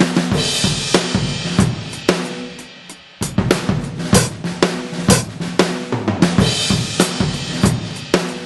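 Drum kit played through a 2Box electronic drum module using sampled acoustic drum and cymbal sounds. It opens with a loud crash and cymbal wash that dies away, then about three seconds in a steady beat of bass drum, snare and cymbal hits starts up.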